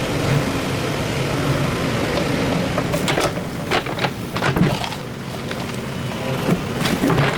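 Excavator's diesel engine running steadily, with a run of sharp, irregular knocks and clatter from about three seconds in.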